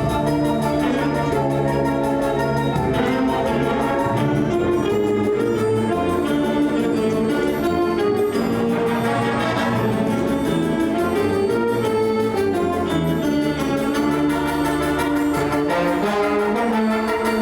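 High school band playing, brass to the fore, with held chords.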